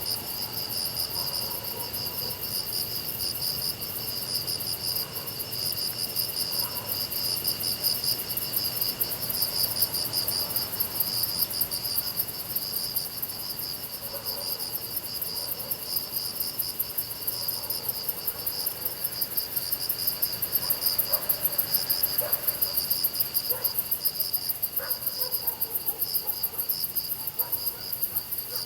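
Crickets and other grass insects chirping together in overlapping trills: one pulsing chorus in the middle-high range and a very high, fast trill above it, with a steady high drone that fades out about nine seconds in.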